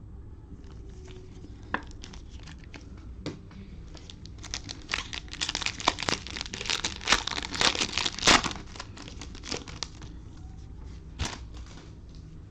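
Cellophane wrapper of a trading-card pack crinkling and tearing as it is opened, densest for a few seconds in the middle, with scattered light clicks before and after.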